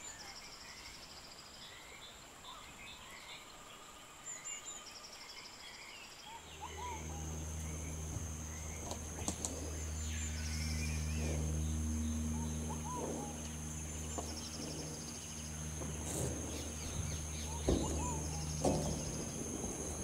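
Rainforest birds calling: repeated short chirps and trills over a steady high whine. From about six seconds in, a low steady hum joins them.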